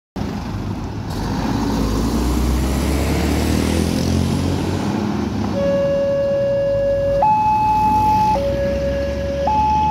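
Road traffic rumbling past a level crossing, then about five and a half seconds in the crossing's electronic warning alarm starts: a two-tone signal alternating between a low and a high note, each held about a second, warning that a train is approaching.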